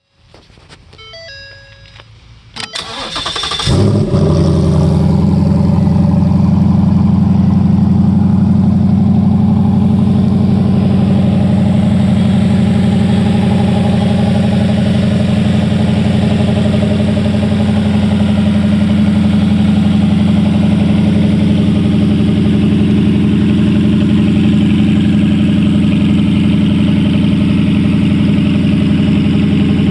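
2018 Mustang GT 5.0L Coyote DOHC V8 on a run stand, cranked by its starter and catching about three seconds in, then idling steadily.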